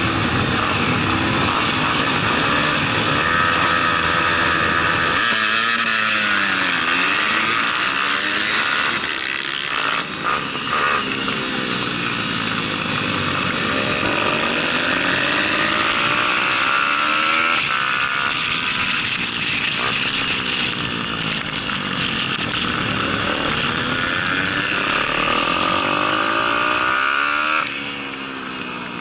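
Daytona 190 single-cylinder four-stroke pit bike engine at racing speed, its pitch repeatedly falling and rising as the rider shuts off and gets back on the throttle through the corners. The engine note drops and quietens near the end.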